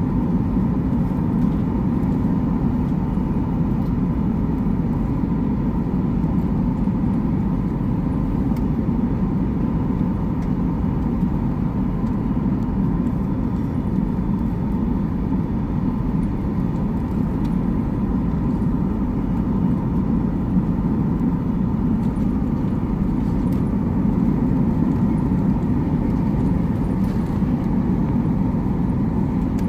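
Steady low rumble of a vehicle in motion, heard from inside the cabin, with an even level and a faint steady hum above it.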